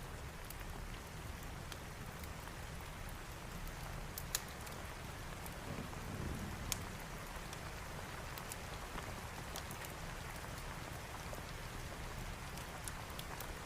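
Steady rain falling, with scattered sharp clicks and pops over it. The loudest pops come about four and about seven seconds in.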